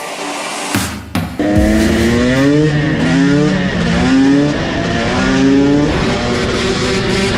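Two-stroke KTM SX supermoto engine accelerating hard. Its pitch climbs and drops back several times as it shifts up through the gears, then holds fairly steady near the end. There is a short knock about a second in.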